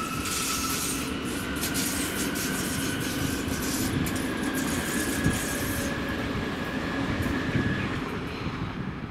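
Siemens Mireo electric multiple unit rolling slowly over curved track and points: a steady rumble of wheels on rail with a high whine that rises slowly in pitch and stops about a second before the end. High hissing drops away about six seconds in.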